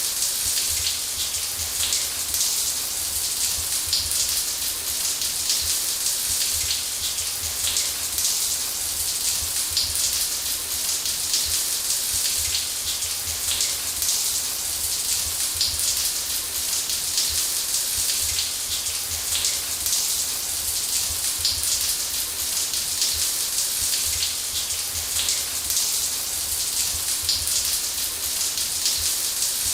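Shower running: a steady spray of water hissing against a surface, with fine droplet splashes and a low rumble underneath, unchanging throughout.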